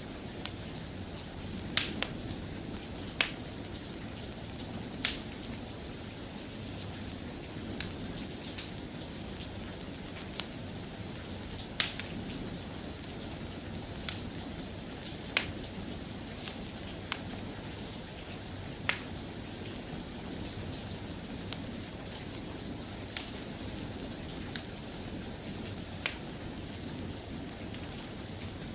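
Steady soft rain hiss, with sharp drop-like clicks at irregular intervals of a second or two.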